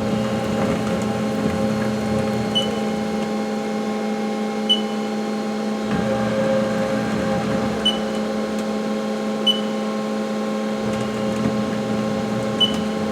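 Haas SL-20T CNC lathe's chip auger being run by hand: a steady motor and machine hum with several constant tones, shifting slightly partway through. Five short, high beeps come at irregular intervals.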